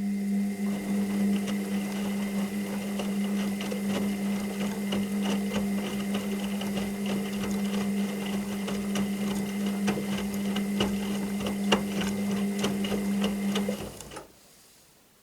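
Washing machine running: a steady motor hum with rattling and clicking, which stops abruptly near the end.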